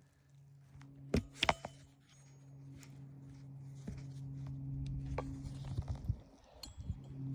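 Three quick sharp knocks about a second in, then scattered lighter taps, from work on an asphalt shingle roof, over a steady low hum.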